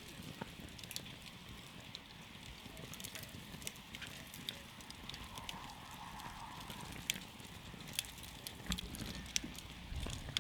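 Campfire crackling: irregular sharp pops and snaps from the burning wood over a low, steady rumble of the flames.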